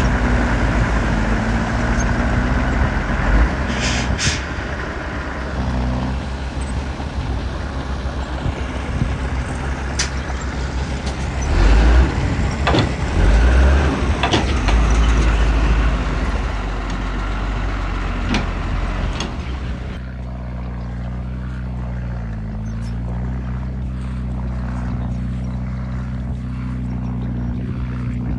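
Heavy diesel machinery engines running hard, with clanks and knocks over the top. After about 20 seconds the engine settles to steadier, lighter running.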